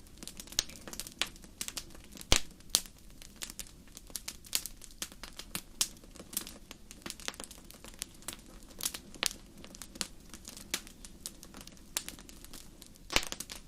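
Wood fire crackling in a fireplace: irregular sharp pops and snaps over a low, steady background rumble, with one louder pop a little over two seconds in.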